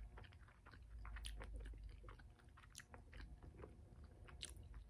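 Quiet chewing of a mouthful of food, with soft, irregular mouth clicks and smacks.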